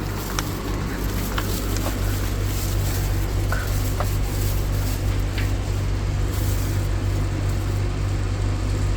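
Steady low hum of an elevator car in motion, with a few faint small clicks.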